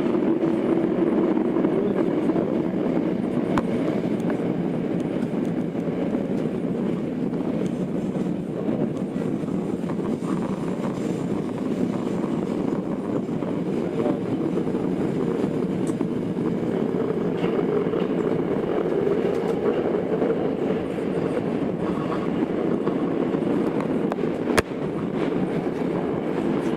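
Tokyo Metro 02 series subway car, an IGBT-inverter set, heard from inside the car while running at steady speed through the tunnel: a constant rumble of wheels on rail. There is a single sharp click near the end.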